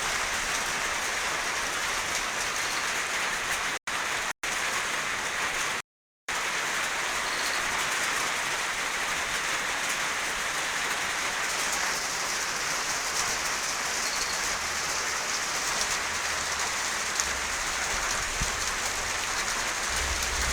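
Steady heavy rain falling, an even hiss of drops. The sound cuts out briefly three times in the first six seconds, and a low rumble joins near the end.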